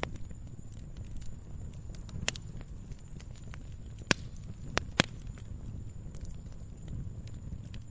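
Wood fire burning: a steady low rumble from the flames with irregular sharp crackles and pops from the burning logs. The loudest pops come about four and five seconds in.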